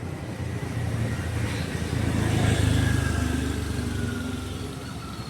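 A motor vehicle's engine passing close by on the street, growing louder to a peak about halfway through and then fading away.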